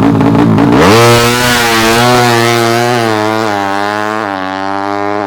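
A 200cc open-class tuned underbone (bebek) drag bike launches about a second in and accelerates hard. Its engine note climbs and drops back at each of several quick gear changes.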